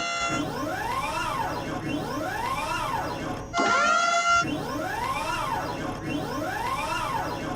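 Cartoon siren sound effect wailing, its pitch rising and falling about once a second. About halfway through it breaks off briefly for a steady held tone, then the wail starts again.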